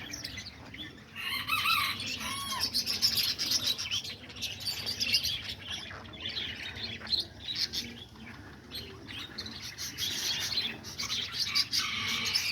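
Small caged parrots (budgies, lovebirds and cockatiels) chirping and chattering all at once, a dense mix of high chirps and short whistled glides, with wings flapping as birds fly about the cage.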